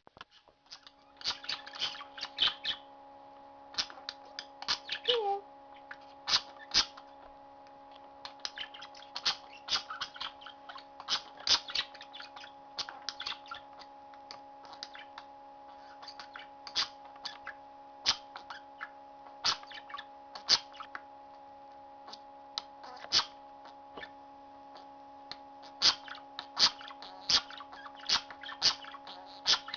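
Pet budgies making short, sharp chirps and clicks at an irregular pace, sometimes in quick clusters, over a steady low electrical hum.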